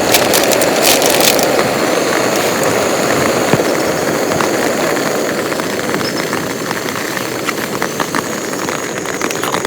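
Heavy rain falling steadily, a dense hiss with scattered sharp drop impacts, easing slightly toward the end.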